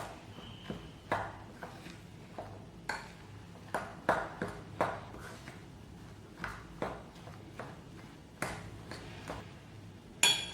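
A utensil stirring a rice-flour and potato snack mixture in a bowl: irregular scrapes and knocks against the bowl, then near the end one sharp, ringing ping as it strikes the bowl.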